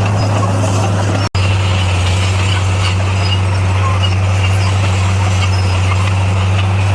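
D58A bulldozer's diesel engine running steadily with a deep, constant hum. The sound cuts out for a split second about a second in.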